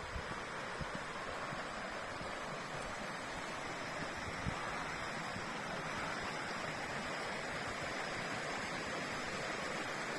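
Steady rush of a river's flowing water, growing slightly louder toward the end, with a few soft knocks, the clearest about halfway through.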